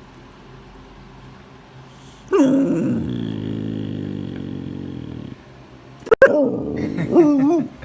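A dog growling: a long low growl starting about two seconds in and lasting about three seconds, then after a sharp click a few short wavering whines.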